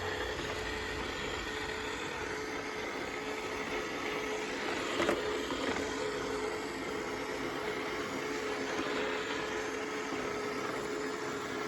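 Roborock S6 Pure robot vacuum cleaner running steadily, its motor giving a constant hum with one steady tone, with a brief knock about five seconds in.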